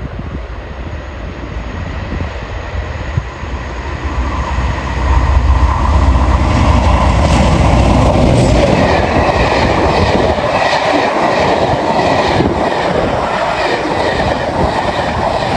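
Diesel locomotive passing close by: a low rumble builds over the first few seconds, then the wheels clatter over the rail joints in a run of repeated clicks.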